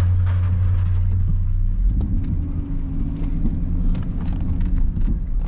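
Vehicle engine and road noise heard from inside the cabin while driving: a steady low drone that shifts about two seconds in, when a higher steady tone joins it.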